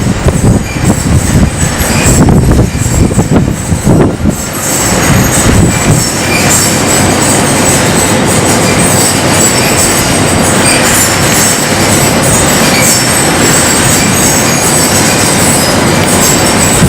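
Wind blowing across metal roofing, making a loud, dense metallic rushing and screeching with faint high whistling tones. Gusts buffet the microphone for about the first four seconds, then the sound settles into a steady roar.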